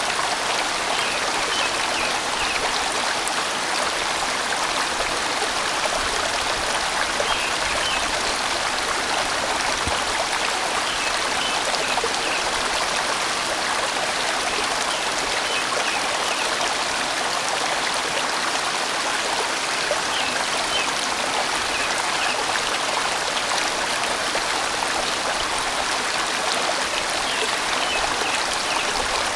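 A large valley stream flowing steadily in big bends, a full and even rush of water with no breaks.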